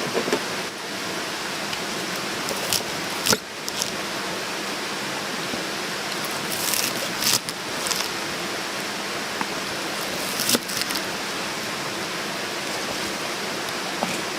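Steady, even rushing noise, with a few sharp knocks and clicks on top; the loudest knock comes about three seconds in.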